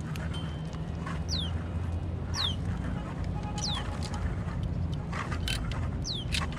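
A bird calling again and again, each call a short whistle falling sharply in pitch, about once a second, over a steady low rumble. A few short clicks and rustles come near the end.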